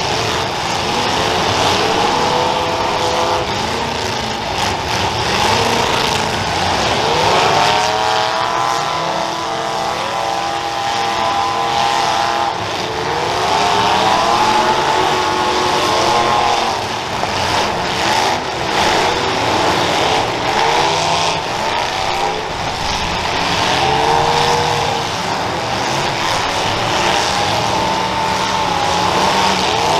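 Several demolition derby cars' engines revving hard and dropping back, overlapping as they push and ram each other. The rises and falls in pitch keep coming one after another.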